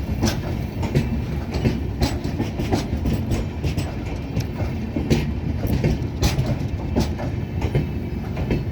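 Express train's LHB passenger coaches rolling along the track, with a steady low rumble and the wheels clicking over rail joints at uneven intervals.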